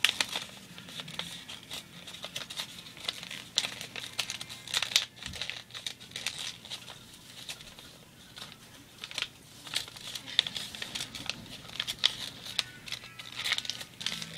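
Sheet of paper being folded and creased by hand, with irregular crinkling and rustling as it is pressed along the folds.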